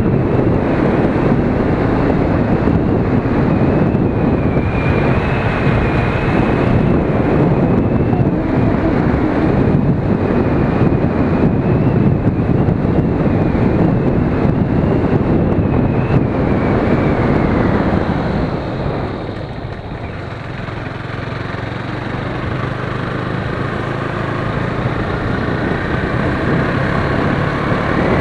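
Heavy wind noise on the microphone over the single-cylinder engine of a 2017 KTM Duke 390 while it is ridden at speed. About 18 seconds in, the wind noise drops and the engine's note comes through more clearly, then slowly grows louder again.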